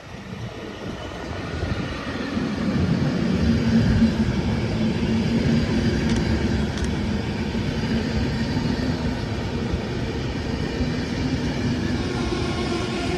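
Electric train at a station, its running noise growing louder over the first few seconds and then holding steady, with a steady low hum from its electric drive over the rumble of the wheels.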